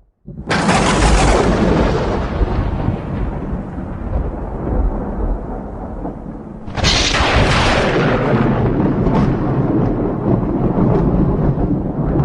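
Two thunderclaps: a sudden sharp crack about half a second in that rolls into a long low rumble, then a second crack near the middle that rumbles on.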